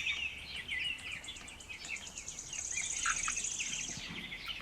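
Baby chickens (chicks) peeping: many short, high chirps overlapping. A fast, high trill joins in from about halfway through for a second and a half.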